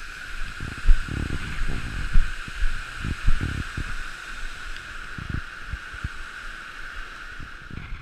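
Waterfall rushing as a steady hiss, with gusts of wind buffeting the microphone in irregular low thumps.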